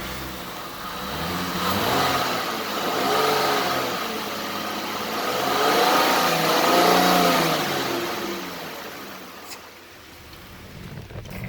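A 2010 Lincoln MKS's V6 engine being revved up and back down twice, settling back toward idle near the end.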